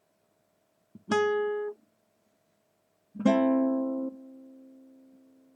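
Two guitar chords strummed in a pause: the first, about a second in, is cut short after about half a second; the second, about three seconds in, is left to ring and slowly fades away.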